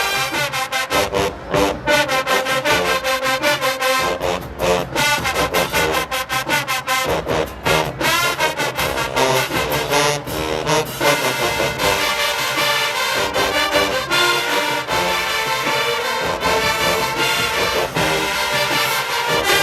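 HBCU show-style marching band playing loud brass-heavy music, trombones and trumpets over a driving drumline beat.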